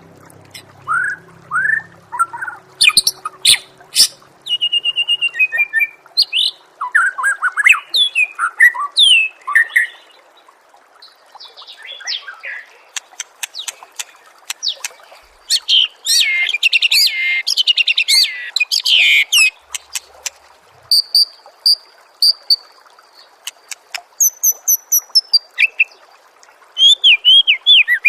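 A songbird singing a long, varied song of short whistled phrases, rapid trills and sharp chips, with a dense run of quick notes about two-thirds of the way through and thin high whistles near the end.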